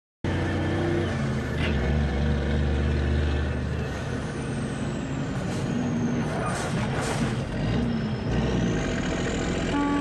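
Truck engine running with road noise, starting abruptly at a cut, with a short hiss of air a little past the middle.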